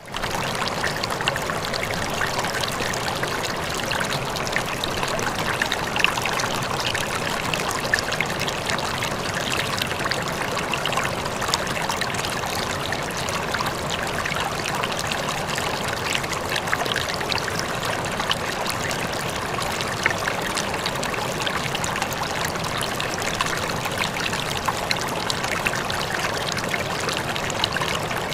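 Small stream flowing steadily over rocks, with a constant trickling and splashing rush.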